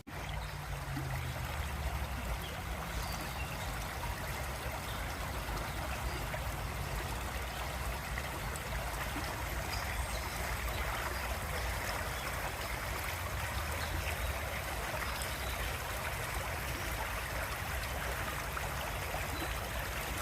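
Babbling brook flowing steadily, running full after recent rain, with a low rumble underneath.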